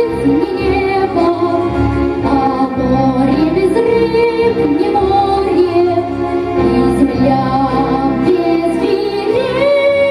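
Music: a girl singing a slow song over a backing track, the melody gliding between long held notes.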